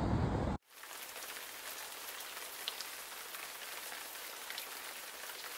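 Rain falling on a car's windshield, heard from inside the car as a steady hiss with scattered faint drop ticks. A louder rushing noise cuts off abruptly about half a second in.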